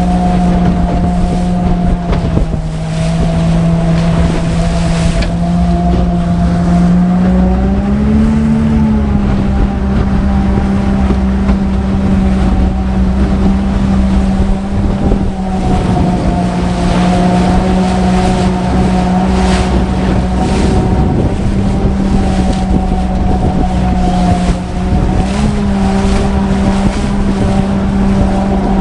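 Motorboat engine running steadily under way, its pitch rising slightly twice, with wind buffeting the microphone and water rushing past the hull.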